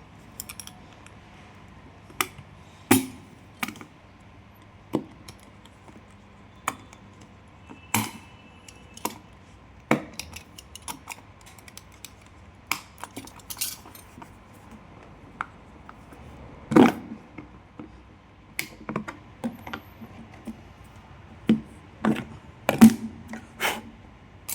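Scattered clicks, taps and knocks of a metal oil can being handled, with a few louder knocks about 17 and 23 seconds in.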